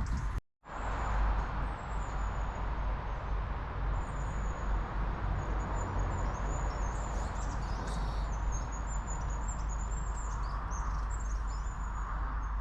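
Small birds chirping and twittering in short, high calls over a steady background rumble of outdoor noise. The sound cuts out completely for a split second just after the start.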